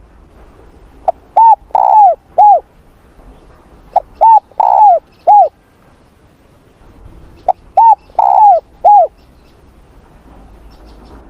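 Spotted dove cooing: three repeated phrases about three seconds apart, each a quick run of short arched coos with a longer, burrier coo in the middle.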